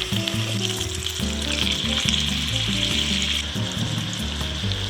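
Chicken thigh pieces frying skin-side down in hot oil in a pan, a steady sizzle that swells for a couple of seconds in the middle, with background music underneath.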